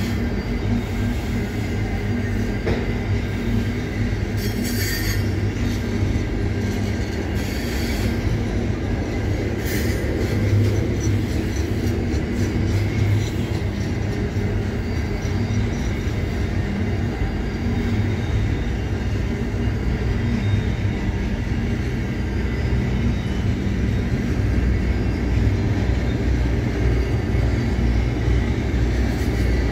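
Double-stack container freight wagons rolling past on steel rails: a steady rumble of wheels and bogies. Brief high-pitched wheel screeches come in a few seconds in.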